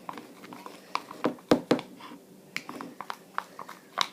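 Homemade slime being mixed by hand, giving irregular sticky clicks and pops, several a second.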